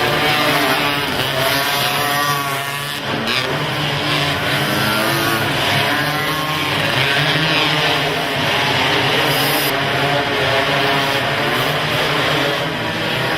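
Several racing quad (ATV) engines revving hard, their pitch repeatedly climbing and dropping as the riders work the throttle and shift, over a steady low drone.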